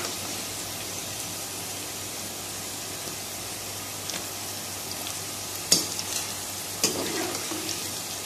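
Bitter gourd slices sizzling steadily in hot ghee in a kadhai, fried to golden brown. A metal utensil knocks sharply against the pan twice, about two-thirds of the way through.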